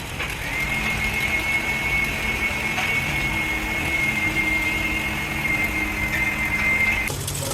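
Factory machinery running with a steady high-pitched whine over a low hum; the whine stops abruptly about seven seconds in while the hum carries on.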